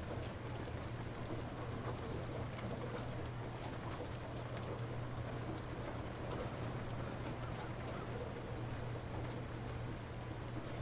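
Light rain falling steadily, with faint scattered drip ticks over a steady low hum.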